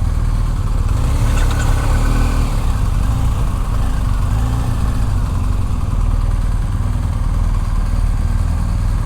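Motorcycle engine running steadily, with a constant low rumble.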